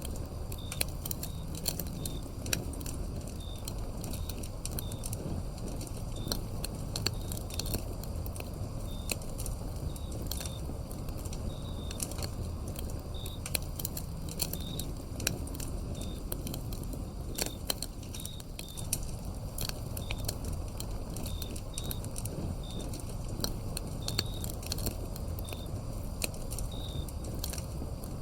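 Wood fire burning with frequent sharp crackles and pops over a low, steady rush, while crickets chirp in short, repeated high notes.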